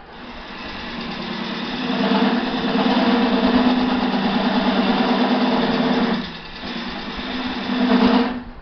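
Wood lathe turning a wet-wood bowl with a gouge cutting into it: a loud, steady cutting noise over the motor's hum that builds over the first two seconds, eases off briefly about six seconds in, then comes back and stops near the end.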